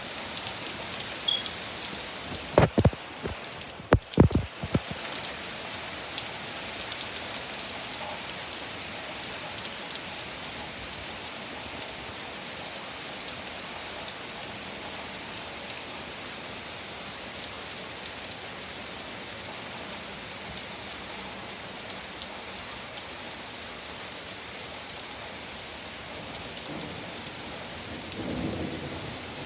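Heavy rain falling steadily, with a close thunderclap about two seconds in: several sharp, loud cracks over the next couple of seconds.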